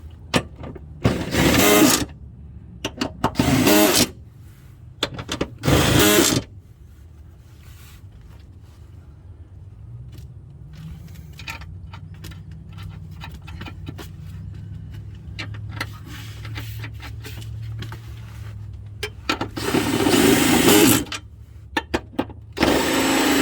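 Power drill running in about five short bursts, driving in the transmission crossmember bolts.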